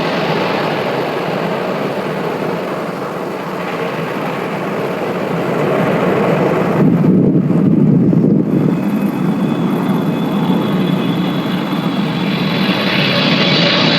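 Jet airliner's engines roaring close by, loudest and deepest about seven to eight seconds in, then a high-pitched engine whine that builds toward the end.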